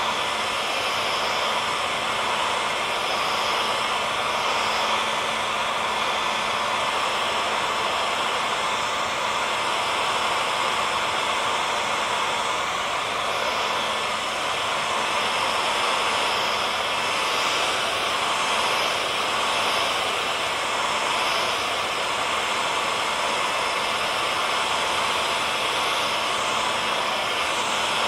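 Hair dryer running steadily: an even rushing hiss of air with a faint constant motor hum and a few steady tones.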